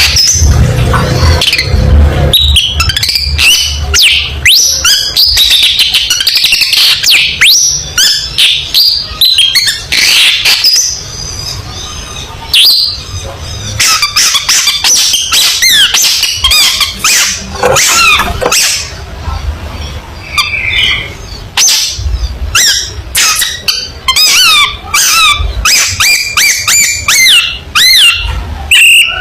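Long-tailed shrike (cendet) singing a fast, varied song of sharp sweeping whistles, chatters and harsh squawks in dense bursts with brief gaps. It is a bird in full, excited song ('gacor').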